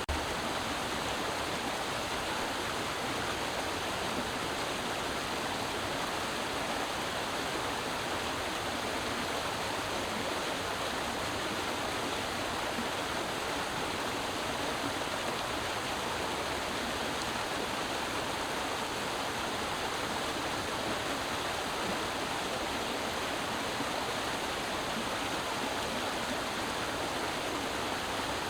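A creek's water running over rocks in a steady, even rush.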